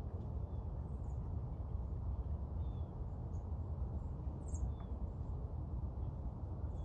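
A few short, faint, high bird chirps, scattered and spaced out, over a steady low outdoor rumble.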